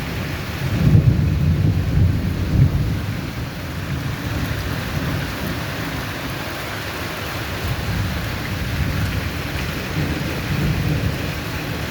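Steady heavy rain with low rolling thunder, the rumble swelling about a second in and easing off after a couple of seconds.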